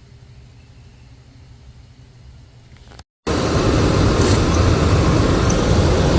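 Faint low rumble for about three seconds, then, after a sudden cut, the 1998 Lincoln Navigator's 5.4-litre V8 engine running, loud and steady.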